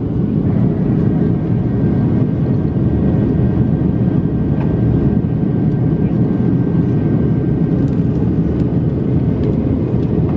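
Steady cabin roar of a Boeing 737-700 in flight, its CFM56-7B turbofans and the airflow over the fuselage heard from inside the cabin, with a faint steady whine above it.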